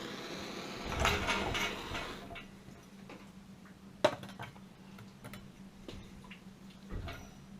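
Metallic clinking and clatter of things being handled, with a cluster of clicks in the first two seconds, one sharp click about four seconds in and a dull thump near the end, over a faint steady low hum.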